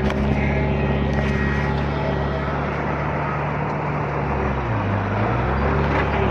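Heavy diesel engine of earthmoving machinery running steadily. Its pitch dips briefly about five seconds in and then picks back up.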